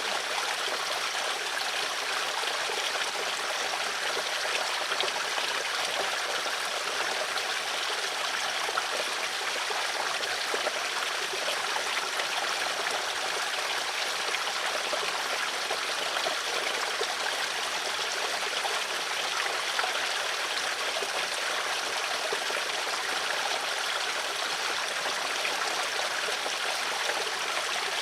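Water flowing steadily in a stream, an even rushing and trickling that does not change.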